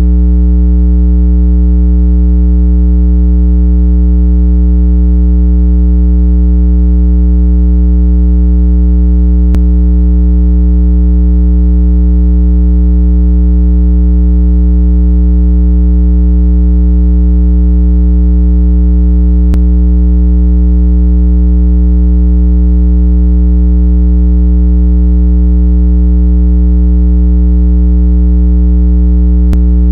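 Continuous synthesized low-pitched tone, a speaker-cleaning water-eject tone, holding a perfectly steady pitch with a buzzy stack of overtones.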